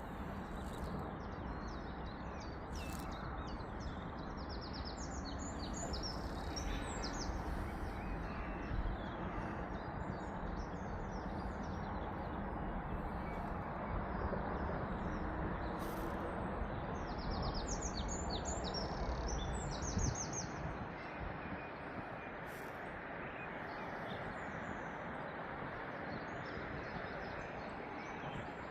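Small birds chirping and giving quick high trills, in two clusters, one about a fifth of the way in and another past the middle, over a steady low outdoor rush that eases about two-thirds of the way through.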